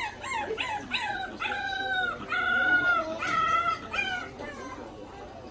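Bulldog puppies crying and whining in high-pitched, wavering wails, several calls overlapping; the crying dies down about four seconds in.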